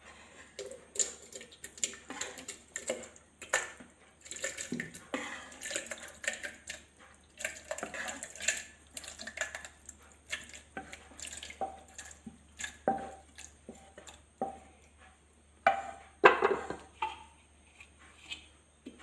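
Thick cooked tomato gravy being spooned into a mixer-grinder jar: wet slops and plops with irregular clinks and scrapes of a spoon against metal pots.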